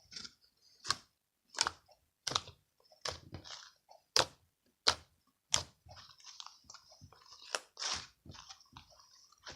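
Crunchy food being bitten and chewed: sharp crunches about every 0.7 s, then softer crackling chewing near the end.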